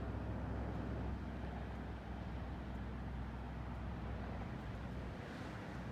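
Steady outdoor background noise with a low rumble, which drops away about five seconds in.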